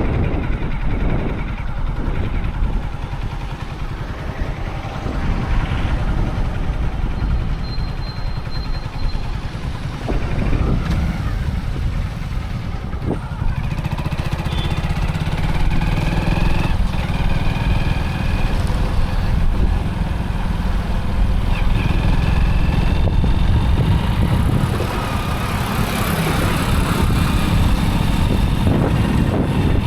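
Motorcycle running while riding along a town road, its engine mixed with wind and road noise, getting louder from about fifteen seconds in. A few short steady high tones come from other traffic.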